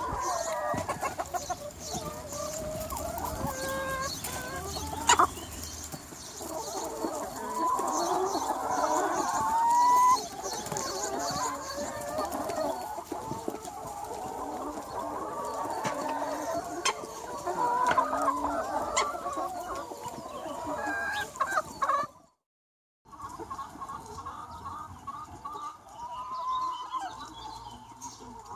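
A large flock of free-range hens clucking and calling over one another in a busy, overlapping chorus. The sound drops out briefly about three quarters of the way through, then the flock resumes.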